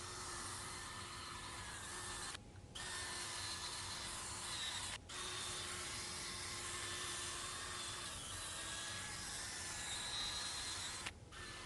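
Electric drill spinning a foam polishing pad loaded with polishing compound on a headlight lens, running with a steady motor whine. It drops out suddenly for a moment a couple of times.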